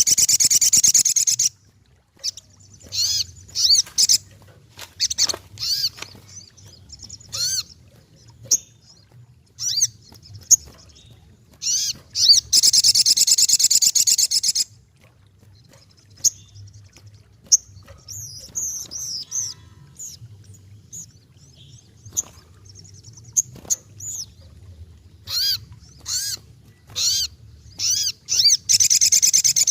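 Sogok ontong (little spiderhunter) singing: a string of sharp, high chirping notes with gaps between them. Three long, fast trilling runs come at the start, about halfway through and near the end.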